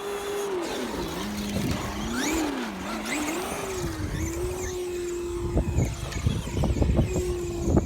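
Traxxas E-Revo radio-controlled truck's brushless electric motor whining, its pitch dipping and rising as the throttle changes. In the last couple of seconds the tyres crunch and scatter gravel.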